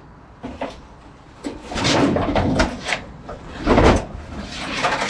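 Scraping and knocking as a steel-caged IBC tank is shifted into place on top of another, in several rough bursts, the loudest a little before four seconds in.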